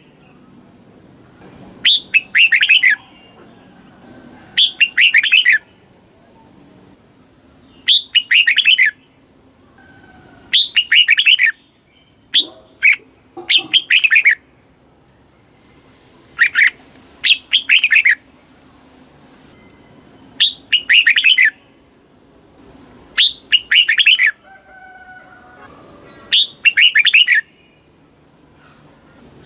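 Red-whiskered bulbul singing short, bright, warbling phrases of about a second each. The phrases repeat roughly every three seconds, with quiet gaps between them.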